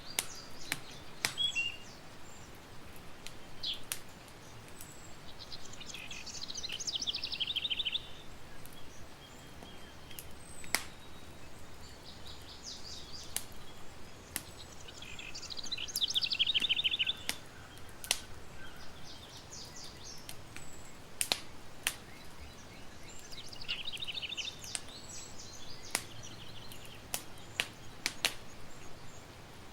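Campfire crackling with sharp scattered pops, while a songbird sings a quick, trilled phrase about five times.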